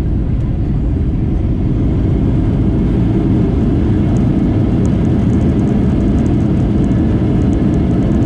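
Steady, loud rumble of a Boeing 737-800 on its landing rollout just after touchdown, heard from inside the cabin: its CFM56 engines and the wheels on the runway, growing a little louder about two seconds in.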